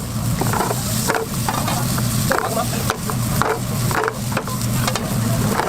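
Egg sizzling in a hot pan while a utensil stirs it, with repeated short clicks and scrapes against the pan about twice a second.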